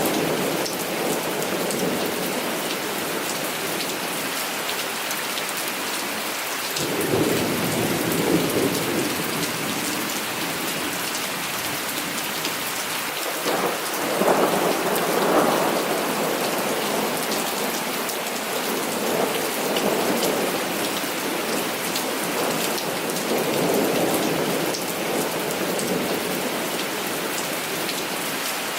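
Heavy rain falling steadily, with rolls of thunder rumbling through it: the first about seven seconds in, the loudest at about fourteen seconds, then two weaker rolls near twenty and twenty-four seconds.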